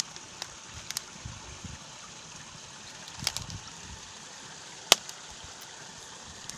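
Small stream running over its bed, a steady rush of water, with a few sharp clicks, the loudest about five seconds in.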